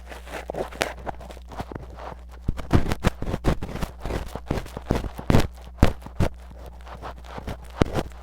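Metal tweezers scratching and scraping hard against a mini microphone in ASMR ear cleaning, meant to sound like scratching deep at the eardrum: irregular rough scratches and clicks, busiest and loudest in the middle, over a low steady hum.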